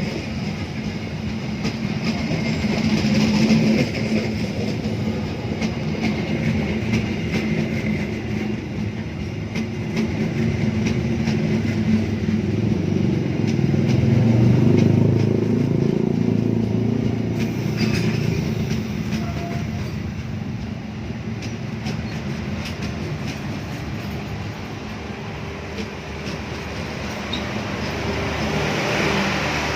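A train passing on the track: a steady rumble of wheels on rail with fast clicking from the wheels over the rail joints, loudest about halfway through.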